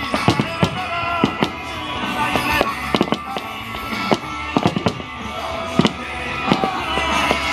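Fireworks bursting in quick, irregular succession, about a dozen sharp bangs, over music playing throughout.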